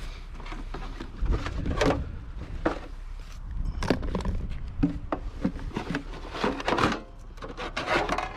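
Household junk being shifted and rummaged through in a pile of hard rubbish: irregular knocks and clatters, a few with a brief ring.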